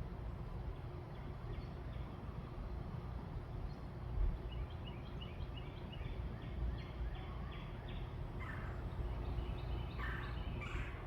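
Birds calling outdoors: a quick run of short, high repeated notes, about four a second, in the middle, then a few harsher calls near the end, over a steady low rumble.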